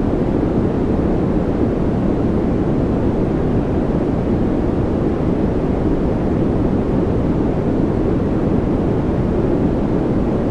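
Steady, unchanging noise played as a focus and relaxation track, deep and rushing, with most of its weight in the low end and little hiss.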